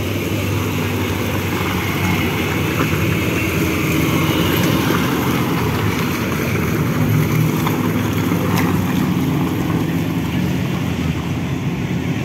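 Engines of off-road buggies running steadily as they drive slowly past, one after another.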